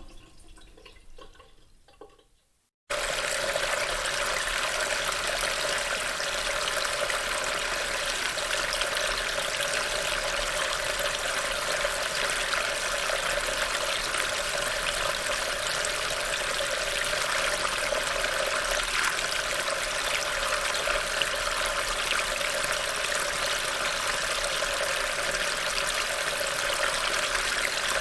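A sink spraying fades out, then after a short silence a steady rush of water running into a storm drain starts about three seconds in and keeps going evenly.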